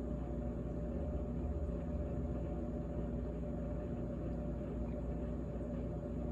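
GE GTH18XCTZRBB refrigerator running: a steady low hum with several fixed tones and no change in speed.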